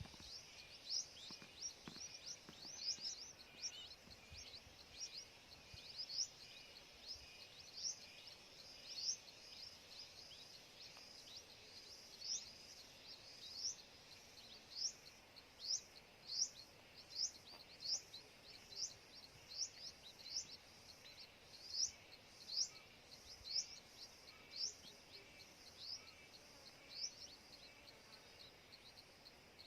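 A bird calling: a long series of short, high, falling chirps, a little over one a second, some louder than others, over a faint steady hiss.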